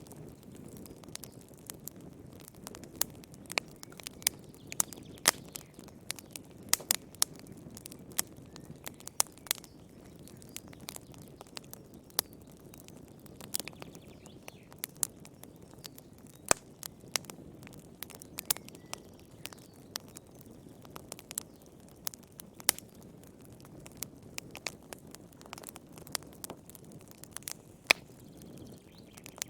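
Fire in a fireplace crackling: irregular sharp pops and snaps, several a second at times, over a steady low rush of the flames.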